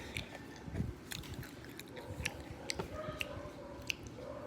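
Faint chewing with scattered small crisp clicks: someone eating a snack with Nutella.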